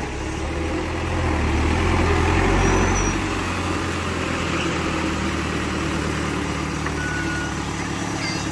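Diesel engine of earthmoving machinery running steadily, swelling louder about a second in and dropping back just after three seconds.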